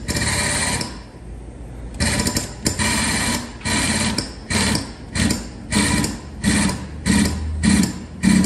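A power tool run in repeated short bursts, about a dozen over several seconds. The bursts come faster toward the end, and the later ones carry a low hum.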